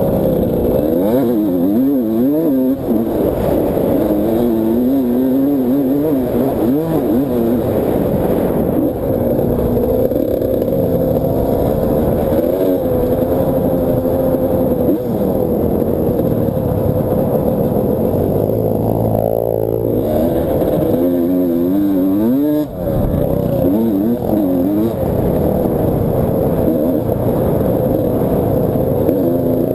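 Motocross bike engine pulling hard, its pitch rising and falling over and over with throttle and gear changes, heard from a camera mounted on the bike.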